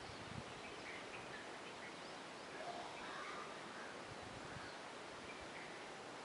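Faint outdoor ambience: scattered distant bird chirps over a steady hiss, with a slightly louder call about three seconds in and a little low wind rumble at the start.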